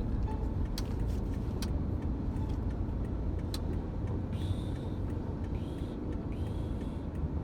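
A vehicle on the move, giving a steady low road-and-engine rumble, with a few sharp clicks and two short high squeaks about four and a half and six seconds in.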